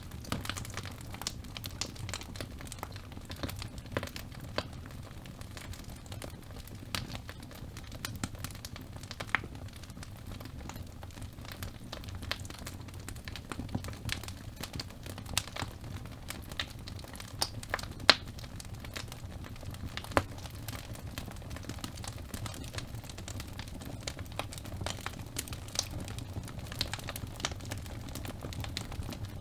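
Wood fire burning in a fireplace: a steady low rumble with irregular crackles and snaps from the burning logs, a few sharper pops standing out.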